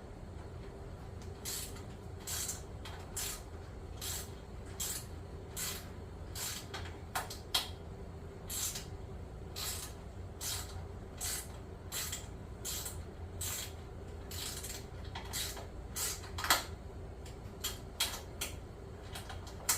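Short mechanical ticks or scrapes repeating evenly, a little more than one a second, over a faint steady hum.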